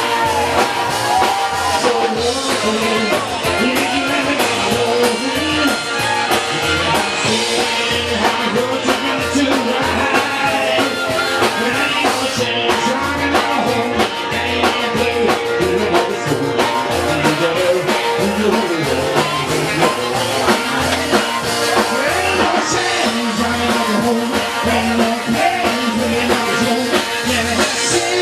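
Rock and roll band playing live, a mostly instrumental stretch with a steady driving beat and a bending lead line.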